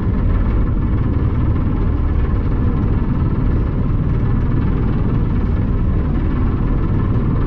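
The 1951 ferry Thomas Rennie's engine running under way: a steady, unbroken low rumble and vibration with a faint steady hum above it.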